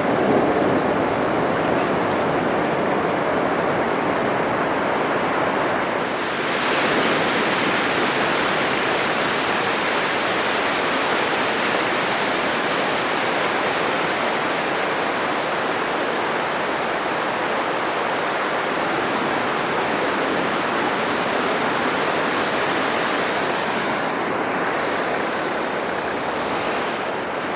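Atlantic surf breaking continuously on a sandy beach, a steady wash of crashing and foaming water that swells a little about six seconds in.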